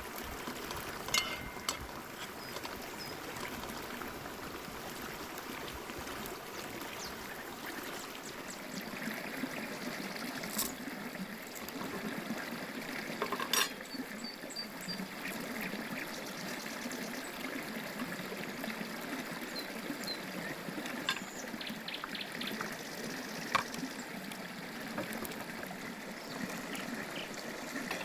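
Water trickling steadily, with a few light clicks and knocks scattered through it.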